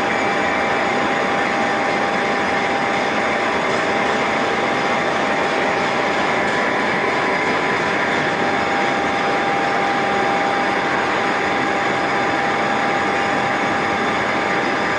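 Horizontal boring mill running steadily: an even machine noise with a constant whine.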